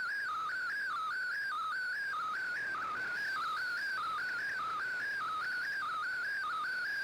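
Slow-scan television (SSTV) image signal received over shortwave radio: a warbling tone that dips briefly and climbs back in a regular cycle about twice a second, as each picture line is sent, over a background of radio hiss.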